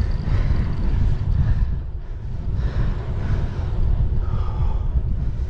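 Wind buffeting the microphone of a bicycle moving at about 25 mph, a heavy, gusting low rumble.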